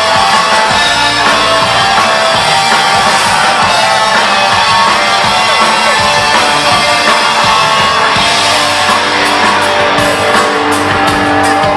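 Rock band playing live: electric guitars over a drum kit, with the cymbal strokes getting busier about eight seconds in.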